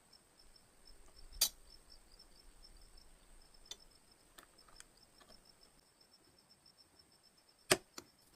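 Sharp clicks and light taps of small hard parts being handled during the repair of a model gun. The loudest come about a second and a half in and near the end, with softer ones between, over a faint steady high whine.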